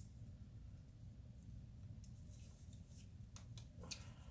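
Faint scattered clicks of small metal injector parts, a bolt and shim, being handled and fitted together by hand, over a low room hum.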